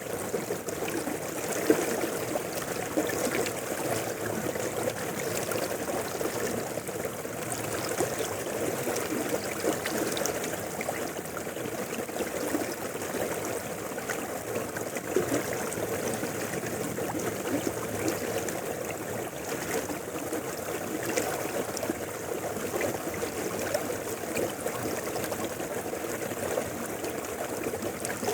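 River water flowing steadily over rocks, a continuous babbling and trickling.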